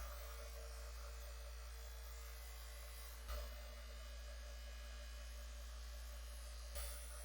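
Low steady electrical hum with faint hiss, broken by three soft clicks, about three and a half seconds apart.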